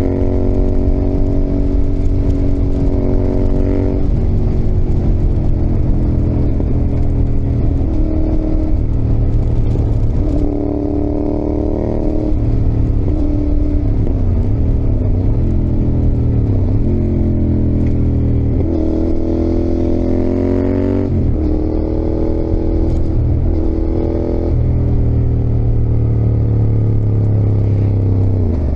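Yamaha XSR700's CP2 parallel-twin engine (crossplane, 270° crank) under way: the revs climb and then drop suddenly several times as it accelerates and shifts, with a few dips as the throttle eases off.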